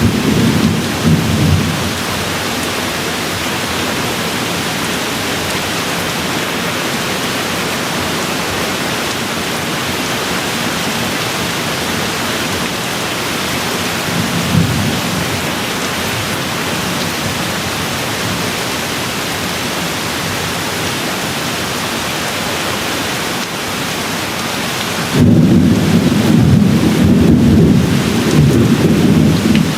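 Steady rain with low, rolling thunder. A rumble fades out in the first couple of seconds, a brief one comes about halfway, and a louder rumble comes in abruptly near the end and carries on.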